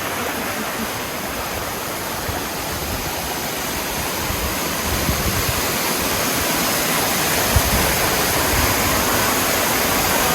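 Waterfall rushing: a dense, steady roar of falling water that grows slightly louder over the stretch.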